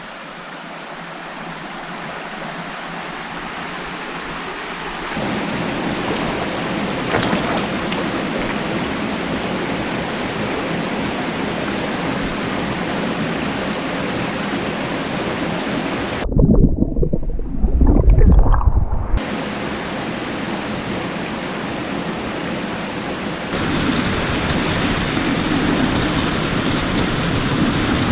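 Steady rushing hiss of a waterfall and mountain stream, growing louder over the first few seconds. About two-thirds of the way through, a few seconds of deep, muffled buffeting drowns out the hiss.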